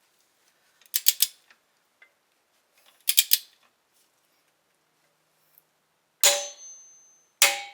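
Hand tools on the BRZ's rear suspension knuckle bolt while it is torqued with a torque wrench: two short groups of sharp metal clicks, then two ringing metallic clinks near the end.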